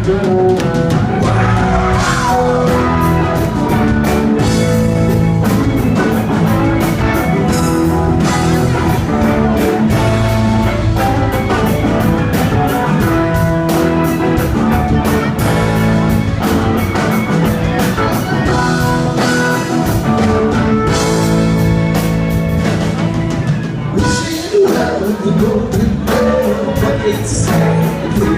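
Live rock band playing: electric guitars, bass, keyboards and drum kit, with sung vocals over a steady beat.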